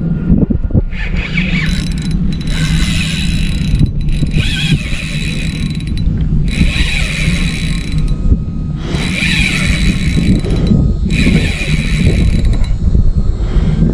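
Fishing reel buzzing in five bursts of one to two seconds each while a big snook fights on the line, over a steady low rumble.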